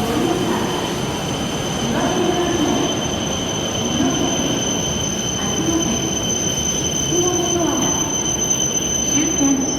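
Train noise with a steady high-pitched whine and a low tone that rises and falls every second or two.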